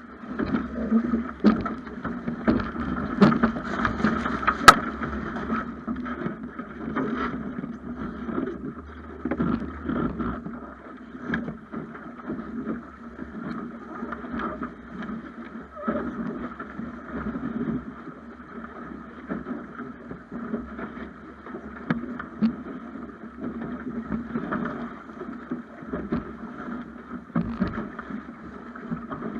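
Water rushing and splashing along the hull of a Snipe sailing dinghy under way, with wind on the microphone and scattered sharp knocks, the loudest about four and a half seconds in.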